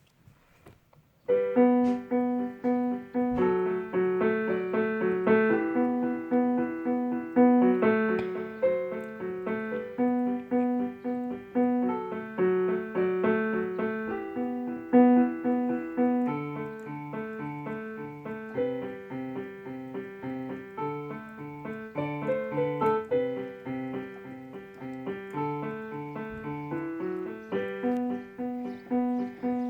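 Electronic keyboard played with a piano voice: a tune over steadily repeated chord notes, starting about a second in.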